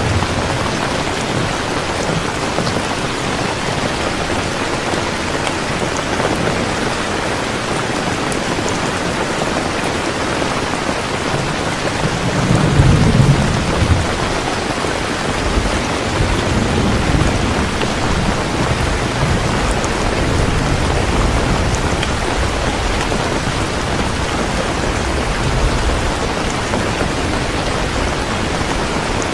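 Heavy rain falling steadily, with a roll of thunder rumbling up about twelve seconds in and fainter rumbles after it.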